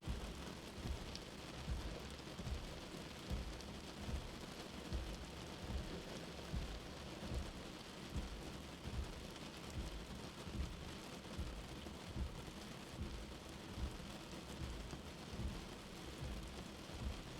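Steady rain pattering, as heard from inside a shelter, with a soft heartbeat thumping underneath about every 0.8 seconds, a slow resting pulse.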